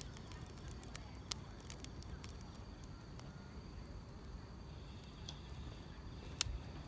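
Wood fire crackling, with irregular sharp pops over a low rumble and one louder pop near the end, and insects chirping faintly in a high steady trill.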